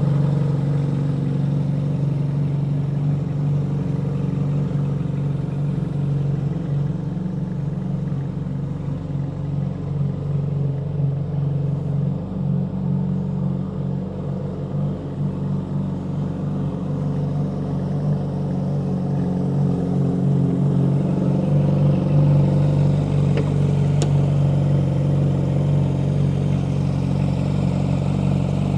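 Ferrari 458 Italia's 4.5-litre V8 with an upgraded exhaust, idling steadily. It grows a little louder in the last third.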